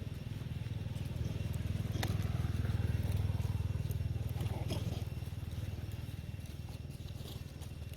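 A low engine rumble that swells to its loudest two to three seconds in and then slowly fades, with a few faint clicks and crackles over it.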